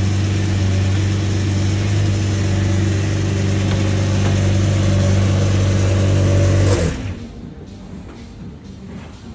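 Lamborghini Murcielago LP 670-4 SV's 6.5-litre V12 idling steadily after a cold start. It cuts off suddenly about seven seconds in, leaving a much quieter stretch.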